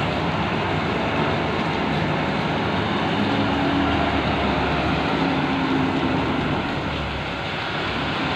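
Heavy machinery running steadily during coal unloading, a low engine hum under a constant rush of heavy rain; the hum eases off about seven seconds in.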